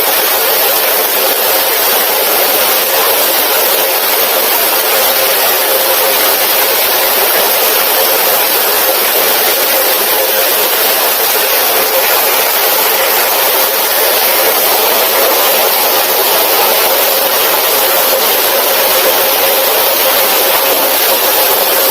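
Heavy rain falling, a loud, steady hiss that does not let up.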